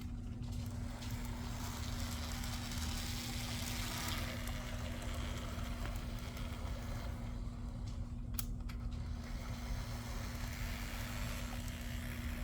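Z scale model locomotive running on track: a steady small-motor hum with wheel noise on the rails, swelling over the first few seconds and easing off, with a single sharp click about eight seconds in.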